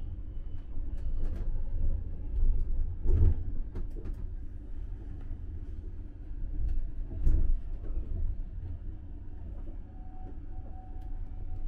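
Steady low rumble of a sleeping car running on the rails, heard inside its compartment, with occasional knocks and rattles of the carriage, two of them louder about three and seven seconds in.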